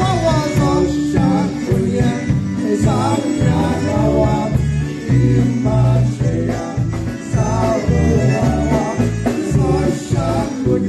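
Live polka band playing a polka, with a steady bass beat under the melody.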